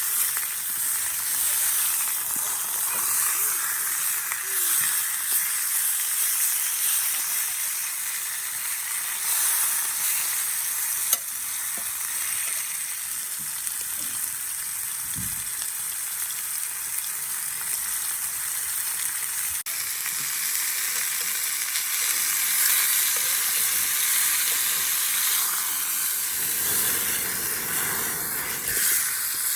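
Food sizzling steadily in a skillet over a campfire, with one sharp pop about eleven seconds in.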